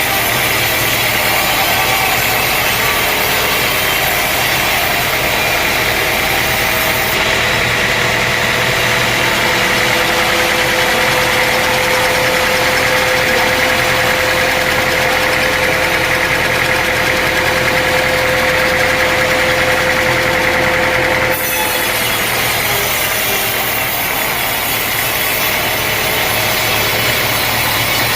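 Sawmill engine running steadily, with a thin steady whine through the middle that stops abruptly about three-quarters of the way in.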